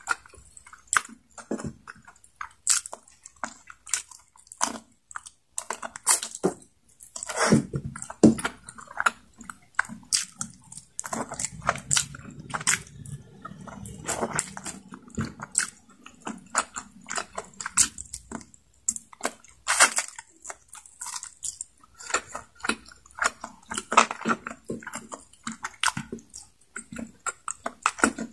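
Close-miked eating sounds: chewing and gnawing on adobo-braised chicken neck and rice. The sound is made up of wet mouth smacks and sharp clicks coming at an irregular pace.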